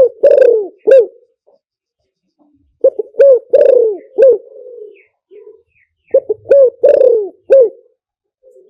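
Spotted dove cooing: three phrases of several short coos, each phrase with one longer, falling note, repeated about every three seconds. This is the wild bird's three-note 'kuk' call pattern, used as a lure call.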